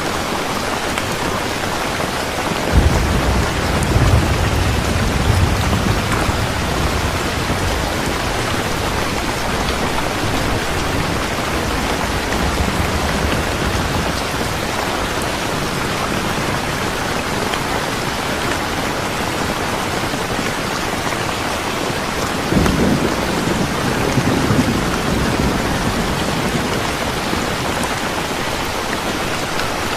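Steady rain falling, a dense even hiss, with rolls of thunder rumbling in about three seconds in and again about two-thirds of the way through.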